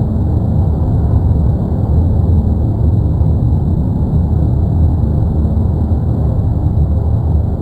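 Steady, loud low rumbling roar of the erupting La Palma (Cumbre Vieja) volcano.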